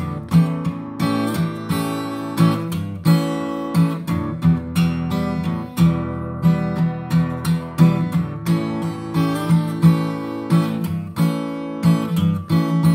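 Acoustic guitar strummed and picked in a steady rhythm, with chords ringing between the strums.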